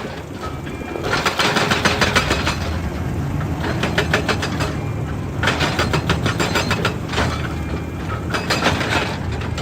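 Excavator engine running steadily, with three bursts of rapid clattering, each a second or two long.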